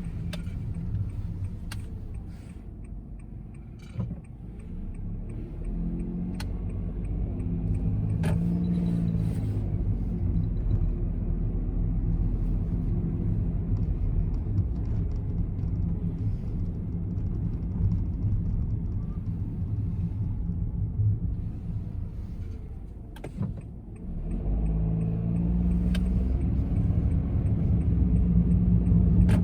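Honda N-BOX's 658 cc three-cylinder engine and road rumble heard from inside the cabin. The sound eases off twice and then the engine note climbs as the car pulls away, about six seconds in and again near the end. A few light clicks sound in between.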